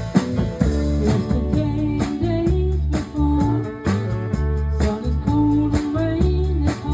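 Live rock band playing a steady-tempo song: guitars, bass guitar and a drum kit, with a sung melody line over them.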